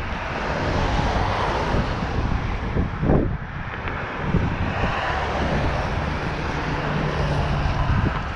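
Riding noise of an NCM Aspen e-bike on a trail: wind on the action camera's microphone and tyre rumble, with a faint steady motor hum. There is a single knock about three seconds in.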